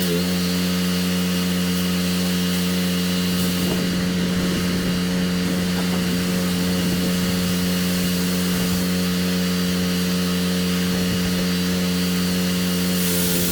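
Pressure washer running steadily, its engine holding a constant drone under the hiss of the high-pressure water spray on concrete.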